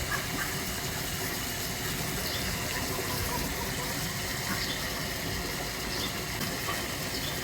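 A steady rushing noise, like running water or wind, with faint short bird chirps here and there.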